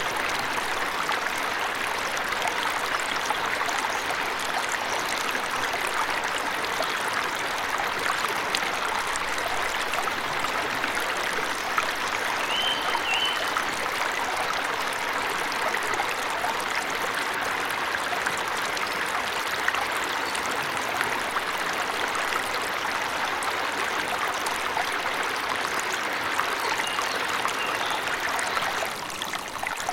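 Forest waterfall rushing steadily, with a short two-note bird chirp about twelve seconds in and a fainter chirp near the end.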